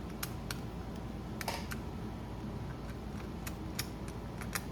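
Scattered light clicks and taps as brass jets are threaded back into a small-engine carburetor body, over a steady low hum.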